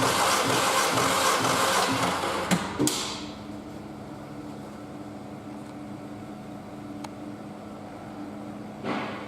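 VW 1.6 8V AKL four-cylinder petrol engine on a test stand, running loudly and then shutting off with two sharp clicks about two and a half seconds in. A steady low hum remains afterwards, with a brief rush of noise near the end.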